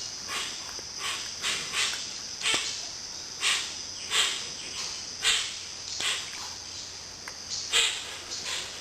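Amazon rainforest ambience: a steady high-pitched insect drone, with short irregular swishing sounds about every second.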